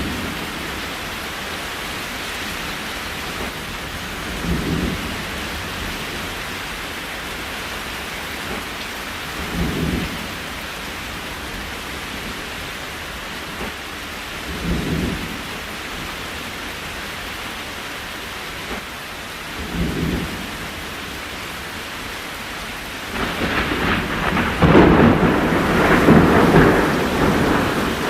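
Steady rain hiss with a soft low swell about every five seconds. A louder, crackly stretch of sound takes over in the last five seconds.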